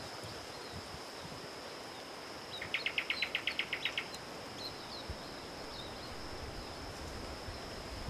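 A bird gives a quick series of about a dozen sharp, evenly spaced notes, roughly nine a second, lasting just over a second, about three seconds in. A few faint high chirps follow, over a steady hiss with a constant high whine.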